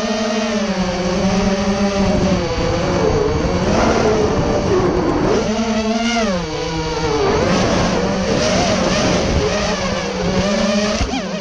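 Racing quadcopter's RCX 2205 2250kv brushless motors and propellers whining. The pitch rises and falls repeatedly as the throttle changes.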